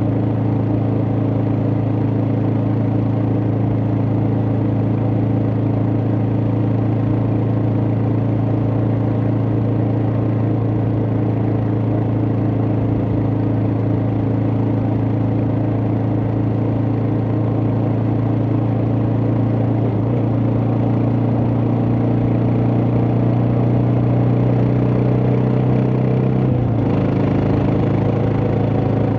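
Suzuki DR650's single-cylinder four-stroke engine running steadily under way, its note holding even until it changes about three seconds before the end.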